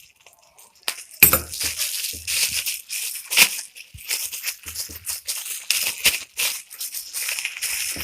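Earphone packaging being opened and handled by hand: irregular rustling and scraping with sharp clicks and a few knocks, starting about a second in.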